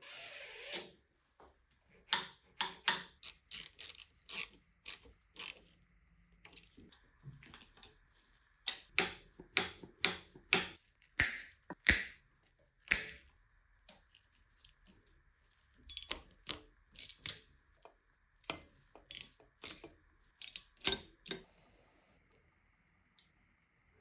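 Irregular sharp metallic clicks and taps of small tools and bicycle parts being handled and worked on, some in quick clusters, over a faint steady high hum.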